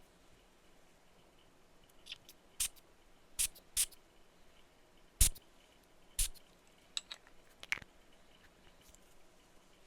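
A perfume bottle being tapped: about ten sharp, irregular clicks and taps that begin about two seconds in, the loudest one about halfway through.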